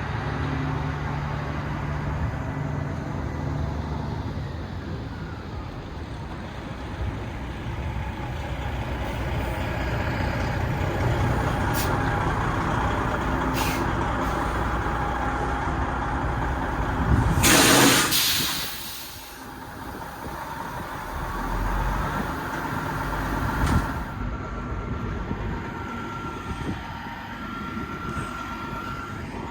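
Semi truck engine running on the move, with steady road noise. About eighteen seconds in comes a loud, short hiss of air from the truck's air brakes, the loudest sound, with two smaller short hisses a few seconds before it.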